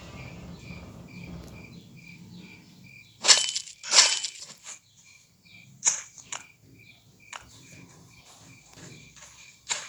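Dry leaves and twigs crackling and snapping underfoot in several loud crunches, the biggest a third of the way in. Behind them a faint, even chirp repeats about two and a half times a second.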